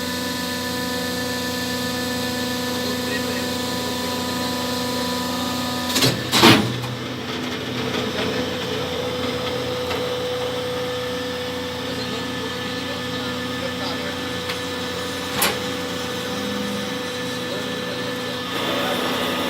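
Hydraulic carton baling press running, its motor and pump giving a steady hum, with a sharp knock about six seconds in and a fainter one about fifteen seconds in.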